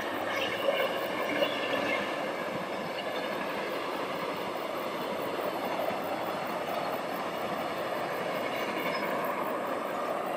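Passenger train passing along the track: a steady rumble of wheels on rails, with two sharp clicks about a second in.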